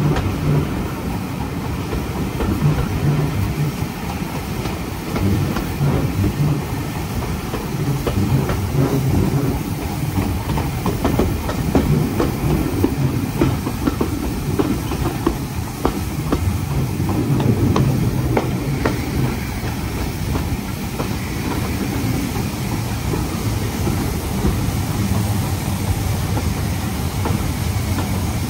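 Steam-hauled passenger train running on the line: a steady rumble from the coaches, with the wheels clicking over the rails.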